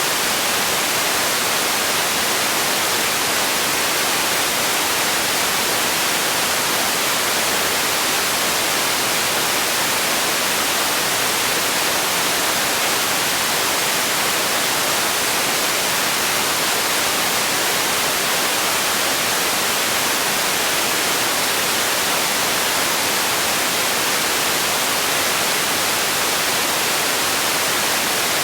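Steady white noise: an even, unchanging hiss, bright at the top and thin in the bass.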